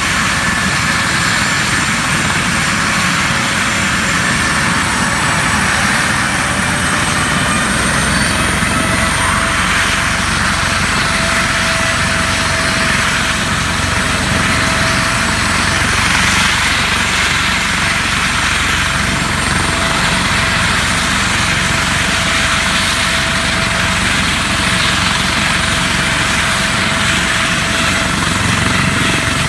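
Airplane engines running, a loud steady noise with a faint high whine.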